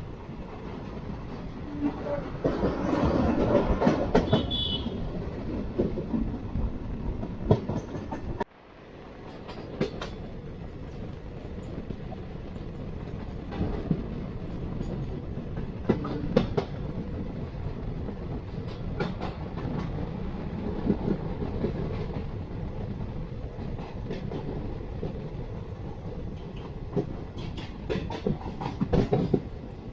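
Passenger train running on the track: a steady rumble with sharp clicks of the wheels over rail joints. The sound cuts out abruptly about eight seconds in and builds back up.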